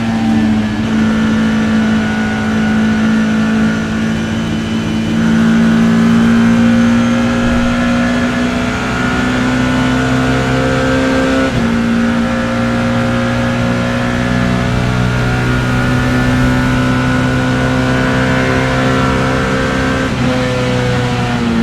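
BMW E30 M3's four-cylinder S14 engine heard from inside the car under sustained full throttle, its pitch climbing slowly through the gears. It makes one quick upshift about halfway through, then climbs again, and the revs fall away near the end as the driver lifts off.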